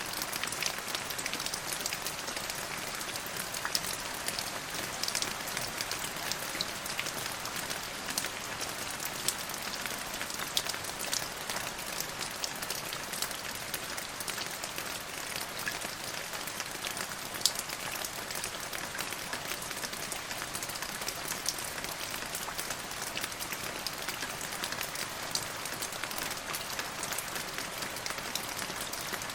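Steady rain falling on a hard surface, an even hiss with many small drop ticks scattered through it.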